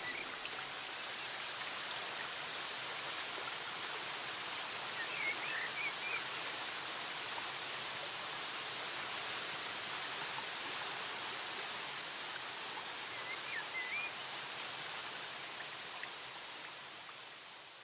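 Steady rushing noise like flowing water, with a few brief high chirps about five and thirteen seconds in, fading out near the end.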